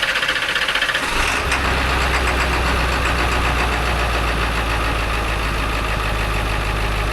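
Ford F450's 7.3 Power Stroke V8 turbo-diesel just fired up, settling into a steady idle about a second in. It is running again, the sign that the poorly crimped injector-harness pins were the fault keeping it from starting.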